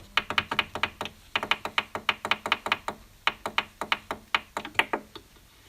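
Quick, uneven tapping: a run of sharp clicks, about six a second, that stops about five seconds in.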